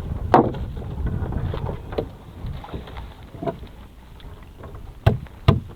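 Wind rumbling on the microphone aboard a small fishing boat at sea, with scattered knocks and two loud thumps about half a second apart near the end.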